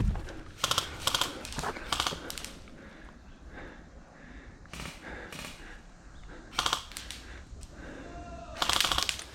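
Airsoft guns firing short full-auto bursts of rapid shots, four or so bursts in a row, the longest at the start and another near the end.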